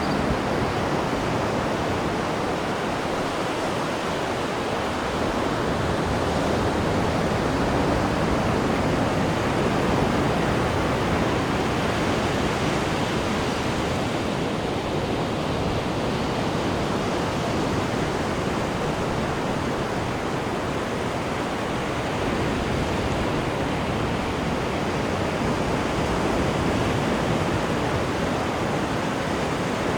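Churning water of a cruise ship's wake rushing behind the stern, a steady, even rush.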